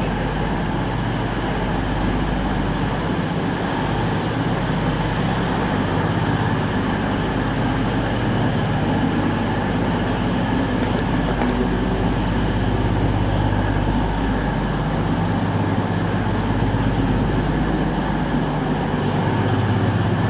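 Diesel train engine idling: a steady low drone.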